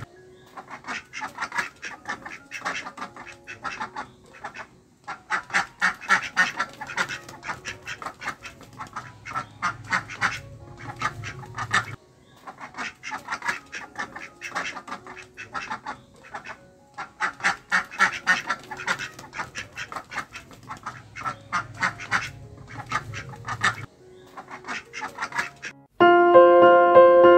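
Ducks quacking in rapid, busy runs, a recording that loops and repeats the same stretch about every twelve seconds. Piano music comes in loudly near the end.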